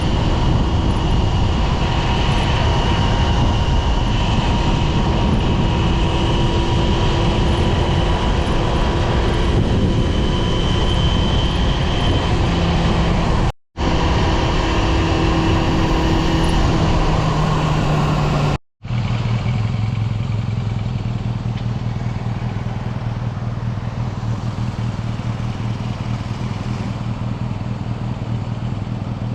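Yamaha FZR250 inline-four engine running under way, its engine tones over a steady rushing noise. The sound cuts out abruptly twice; after the second break the engine note is steadier and lower, with less rushing noise.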